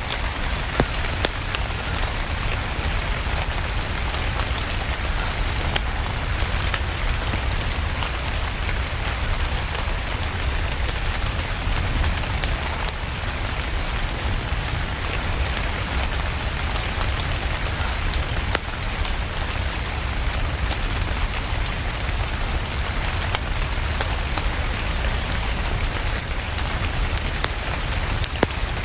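Steady rain hissing with a low rumble underneath, and scattered sharp crackles and pops from a wood fire in a fireplace.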